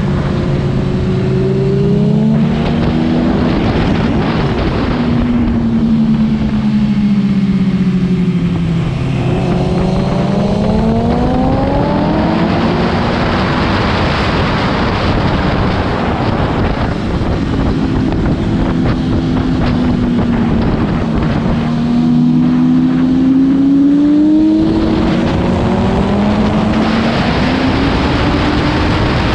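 Motorcycle engine running hard on a race track, its pitch falling as it slows and climbing again as it accelerates, twice over, under a steady rush of wind noise.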